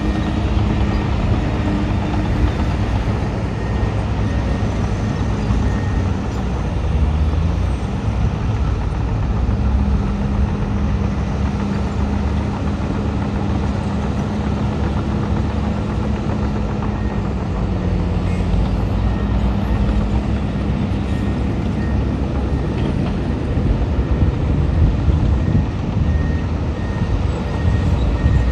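Diesel engines of a bulldozer and dump trucks working, a steady low drone whose pitch dips slightly about two-thirds of the way through.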